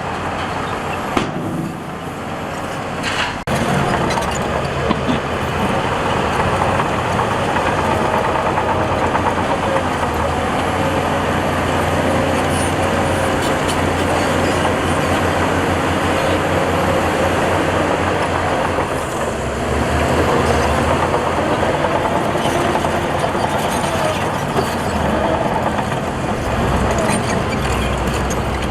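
Heavy diesel earthmoving machinery running steadily under load, with a couple of sharp knocks in the first few seconds.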